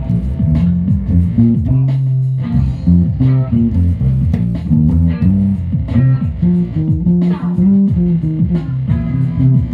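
Music with guitar and a prominent bass guitar playing a busy run of plucked low notes.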